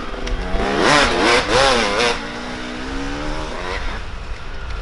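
Dirt bike engines racing past, revving up and falling back through the gears in quick surges, then settling to a steadier note about halfway through.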